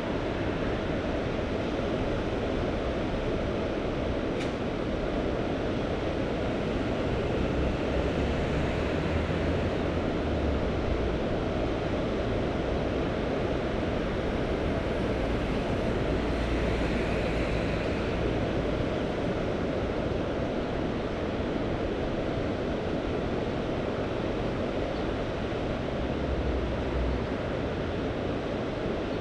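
Mediterranean Sea surf washing steadily, with a few brief low rumbles.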